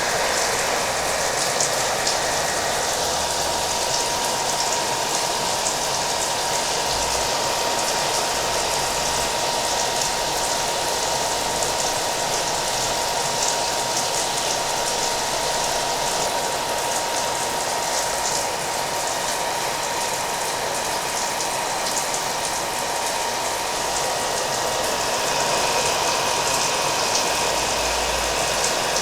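A hair dryer running steadily with a constant whine, mixed with the steady hiss of falling rain.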